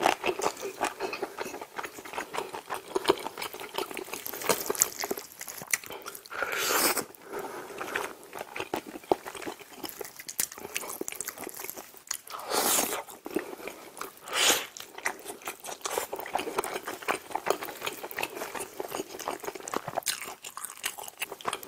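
Close-up chewing and wet mouth sounds of a person eating smoked chicken in a creamy sauce, with many small smacking clicks. A few louder rushing noises come near the middle.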